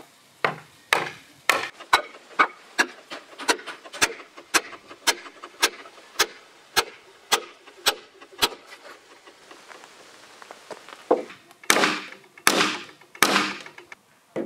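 A hammer striking a wooden wedge, driving it into a scarf joint in an oak beam: a steady run of sharp knocks, about two a second. After a pause, three heavier, longer knocks come near the end.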